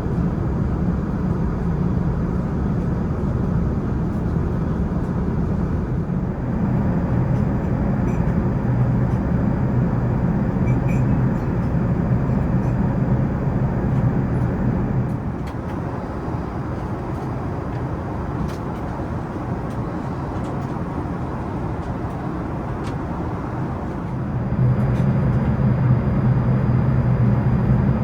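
Steady cabin rumble of an Airbus A380 airliner in flight: a low hum under an even rushing noise. The level drops about halfway through and comes back up near the end.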